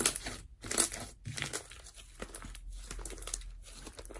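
Irregular crinkling and rustling close to the microphone, a scattered run of short scratchy clicks.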